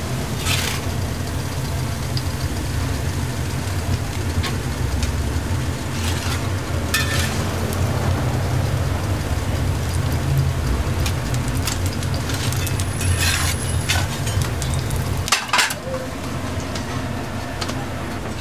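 Potato pancakes sizzling as they fry in hot oil on a flat-top griddle, with a few scrapes and clanks of a metal spatula lifting them onto a steel draining rack. A steady low hum underneath drops out about three-quarters of the way through.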